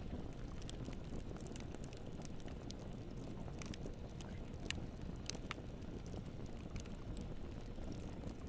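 Wood fire burning in a fireplace: a steady low noise of the flames with irregular sharp crackles and pops, several a second.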